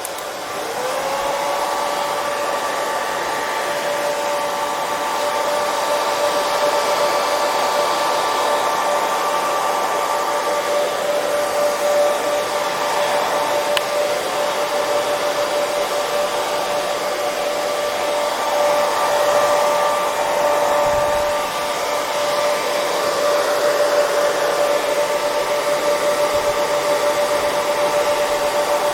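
Hair dryer running: a steady blowing rush with a motor whine that rises in pitch and level in the first second, then holds steady.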